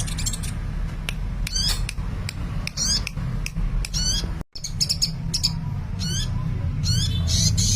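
Sunbird (Indonesian 'kolibri') singing a fast series of high chirps, trills and quick sweeping notes, over a steady low hum. The sound cuts out for a moment about halfway through.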